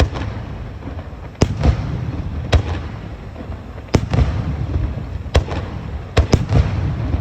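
Aerial fireworks shells bursting overhead: about six sharp reports at irregular intervals, two of them close together near the end, over a continuous low rumble of booms.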